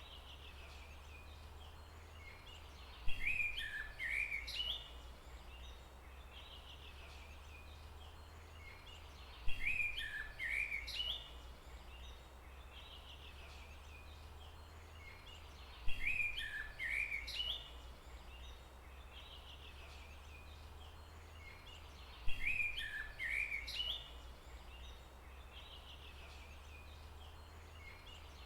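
A songbird singing the same short phrase of quick, zigzagging high notes four times, about every six and a half seconds, each phrase lasting about two seconds. A steady low hum runs underneath.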